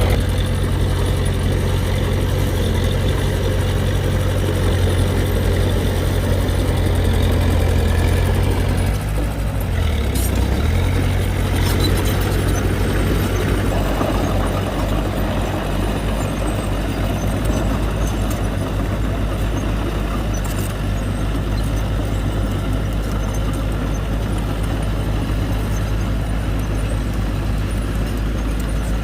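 Heavy diesel earthmoving machine engine running steadily, its speed dipping briefly and recovering about ten seconds in, with a few short knocks.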